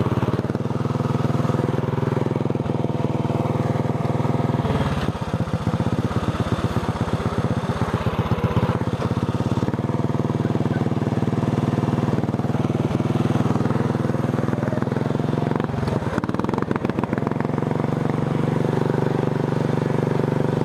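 Racing lawn tractor's engine running steadily under way, with a stretch of rapid pulsing in the engine sound a few seconds in and again briefly later.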